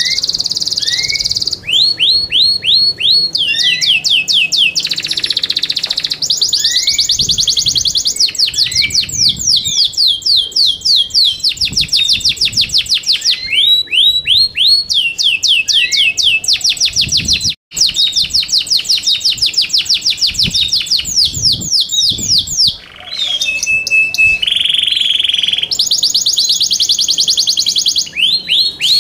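Yorkshire canary singing: long rolls of fast, repeated high sweeping notes, broken by a brief cut about two-thirds through, with a short held whistled note near the end.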